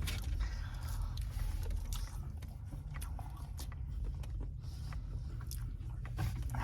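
Close-up chewing and mouth clicks from someone eating a chicken shawarma wrap, over a steady low hum.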